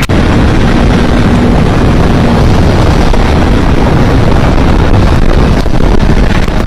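Heavy wind rush on the microphone of a motorcycle riding at speed, with the engine running underneath.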